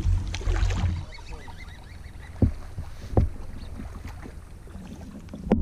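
Water splashing around a fishing kayak: paddle strokes and sloshing in the first second, then a few sharp separate splashes from a hooked bass thrashing at the side of the boat.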